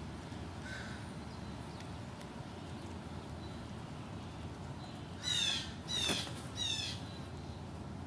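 American crow cawing three times in quick succession, each call a harsh note sliding downward, with a fainter call about a second in. A steady low rumble of background noise runs underneath.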